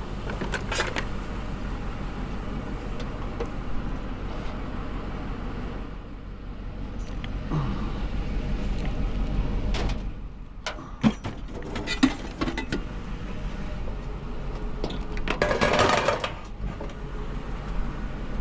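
Pickup truck engine idling steadily, with a few sharp metal clanks and a longer clattering rattle about two-thirds through as scrap metal is handled.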